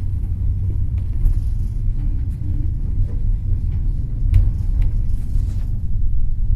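A moving passenger train: a steady low running rumble, with a few faint clicks scattered through it.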